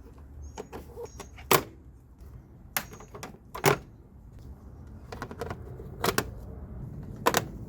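Sharp plastic clicks and knocks, about five spread a second or two apart, from trim clips and panel pieces being pried loose.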